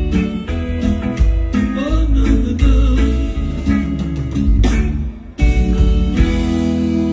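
Live reggae band playing, with regular drum hits, bass and guitar. About five seconds in the band cuts out briefly, then comes back on a long held chord.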